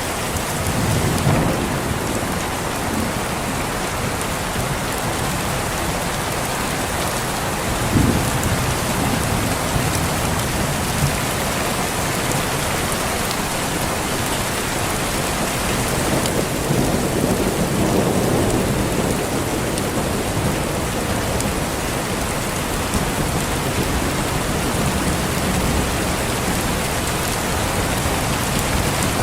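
Steady heavy rain with thunder: a sudden clap about eight seconds in and a longer rolling rumble a little past halfway.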